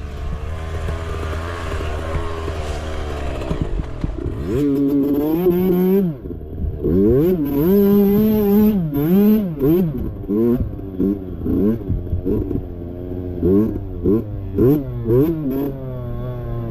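Mini bike engine working on a trail, revving up and down with the throttle. From about four seconds in, the pitch climbs and drops again and again, in quicker, shorter swings toward the end.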